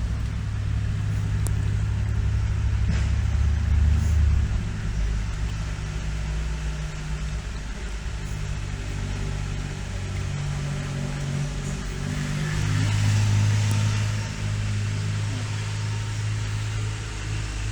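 A low, steady rumble like a motor vehicle's engine, swelling louder twice.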